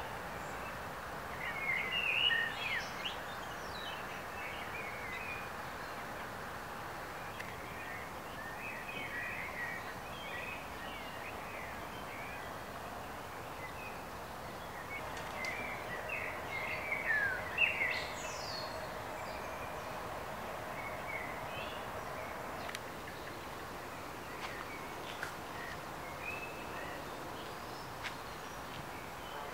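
Songbirds chirping and singing in short phrases over a steady background rush, with the busiest bursts of song about two seconds in and again just past the middle.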